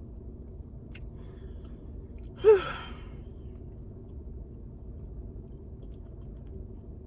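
A woman's single short, loud sigh with a falling pitch, about two and a half seconds in, over a faint steady low hum.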